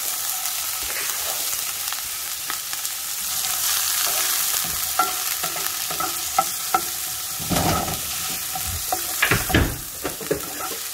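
Diced onion, ginger and garlic sizzling in bacon fat in a frying pan, stirred with a spatula that scrapes and taps the pan. A few heavier knocks come in the second half.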